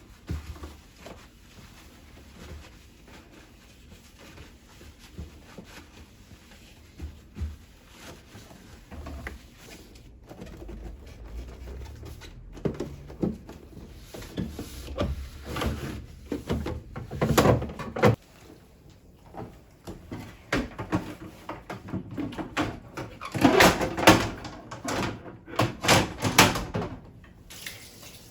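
Handling noises from cleaning the inside of a refrigerator: plastic shelves and containers knocking, cloth rubbing with squeaks, and a door or drawer moving. They start sparse and quiet and build to busier, louder clusters over the second half.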